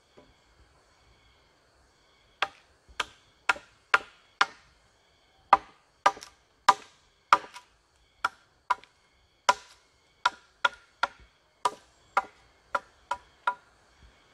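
Sharp strikes of a tool on wood, about two a second in short runs with brief pauses, starting about two seconds in.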